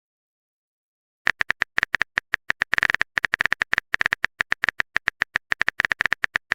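Phone keyboard typing sound effect: a rapid, uneven run of short, sharp clicks starting about a second in, like a message being typed out.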